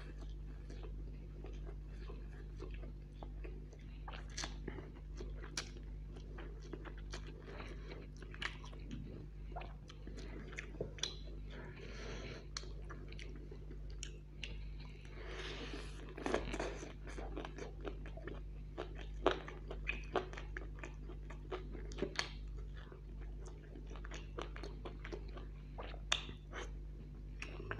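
A person eating close to the microphone: chewing and biting into fried chicken drumsticks and chow mein noodles, with many sharp wet mouth clicks and crunches, over a steady low hum.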